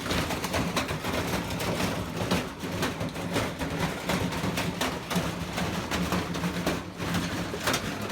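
Washing machine running hard: a steady motor hum with constant, irregular knocking and rattling from the machine.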